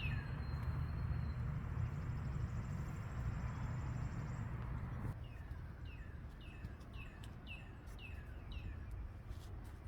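A bird chirping outdoors: short falling chirps repeated about twice a second through the second half, over a low rumble that eases off about halfway through.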